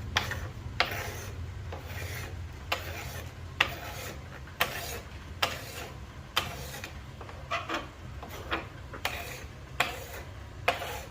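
Hand scraper dragged hard across a rough cedar board, repeated scraping strokes about once a second, uneven in spacing and strength.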